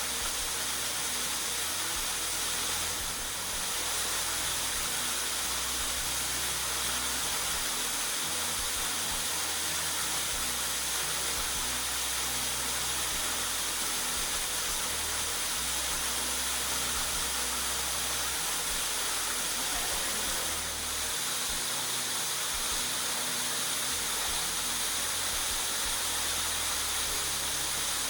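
Waterfall with a strong flow, a steady rushing hiss of falling water.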